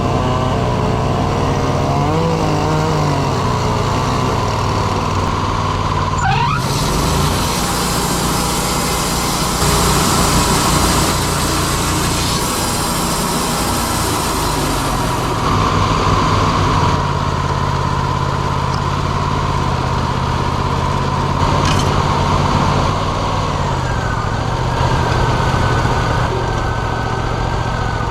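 Wood-Mizer LT40 Hydraulic portable sawmill running, its engine note shifting in pitch a few times as it works. A harsher, hissing noise rides over the engine for several seconds in the middle.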